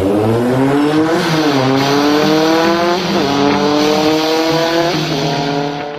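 A vehicle engine accelerating hard through the gears: the revs climb steadily and drop sharply at three upshifts.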